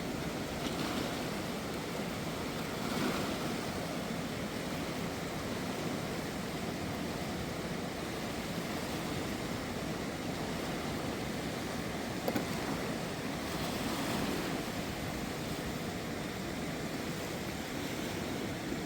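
Flooded river rushing steadily, its level swelling and easing in slow surges, with one short click about twelve seconds in.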